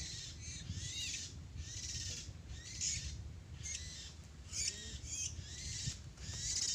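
Oriental magpie-robins (kacer) giving a run of harsh, scratchy calls, one after another with short gaps, with a steady low rumble beneath.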